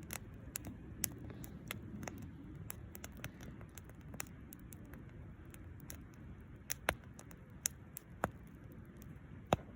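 Wood fire crackling: irregular sharp pops and snaps over a low steady rush, with a few louder snaps about seven, eight and nine and a half seconds in.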